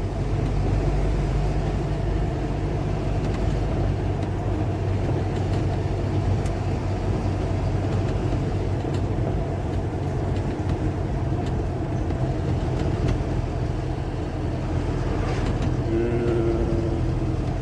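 A car travelling along a road: a steady low engine drone with tyre and road noise, at an even level throughout.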